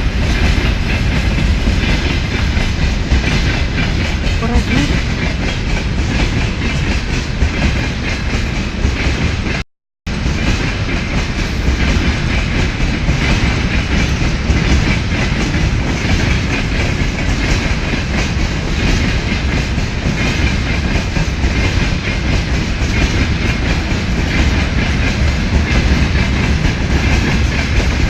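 2TE25KM diesel locomotive hauling a tank train, running steadily with the clickety-clack of wheels over rail joints. The sound cuts out for a moment about ten seconds in.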